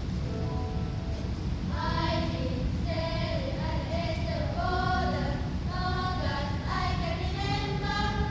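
Junior high school class choir singing an English-language song, the voices coming in about two seconds in after a few faint held notes. A steady low rumble runs underneath.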